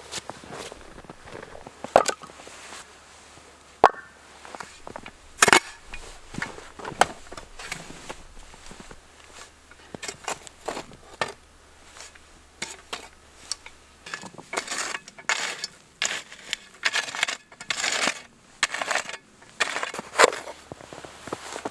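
Scattered sharp knocks and clicks, then about two-thirds of the way through a quick run of short crunching noises.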